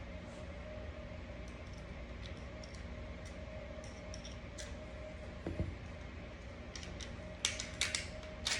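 Light clicks and taps of Smith & Wesson M&P 9mm pistol parts being handled during cleaning, with a dull knock about halfway through and a cluster of sharper clicks near the end, over a steady faint hum.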